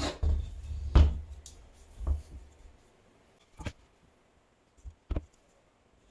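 Workshop handling noises: a series of about five knocks and thuds, the loudest about a second in and the last ones fainter.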